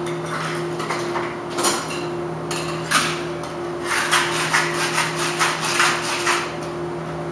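Cocktail shaker with ice: a few separate knocks, then about two and a half seconds of fast, even rattling as the drink is shaken.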